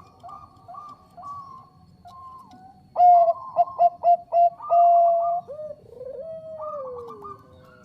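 Zebra dove (Bangkok perkutut) cooing: a run of soft quick notes, then about three seconds in a louder staccato string of coos ending in a held note, followed by a long coo that falls in pitch.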